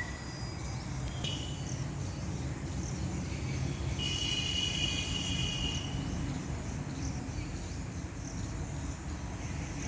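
Outdoor nature ambience: a steady low rush, with a high buzzing trill from an insect or bird lasting about two seconds near the middle.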